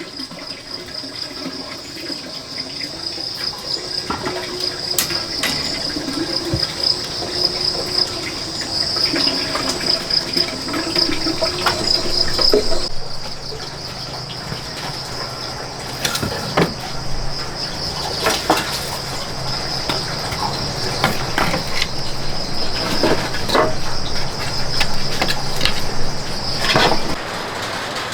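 Insects chirring steadily with a fast, even pulse, with scattered sharp knocks and clatter in the second half.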